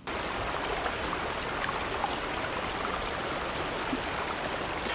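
Rushing river water, a steady, even rush that cuts in suddenly.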